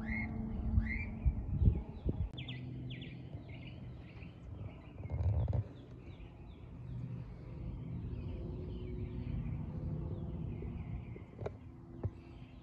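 Birds chirping: a run of short rising chirps less than a second apart at the start, then quicker, varied chirps through the rest. A few low thumps near two seconds in and a brief muffled rumble about five seconds in stand out above them.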